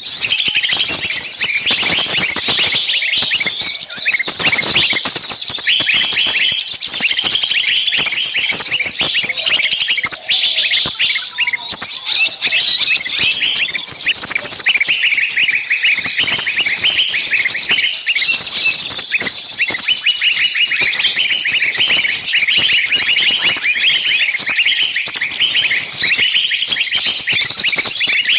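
Dense, unbroken chorus of many small songbirds chirping and screeching over one another. This is a bird-lure recording of agitated, screaming calls as of a trapped bird, used to draw small birds in.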